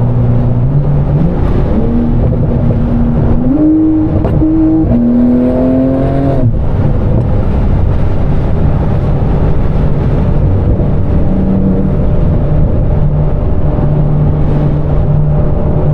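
Straight-piped Audi R8 V10 accelerating hard: engine pitch climbs in steps through quick upshifts, then the throttle closes sharply about six and a half seconds in and it settles to a steady cruising drone.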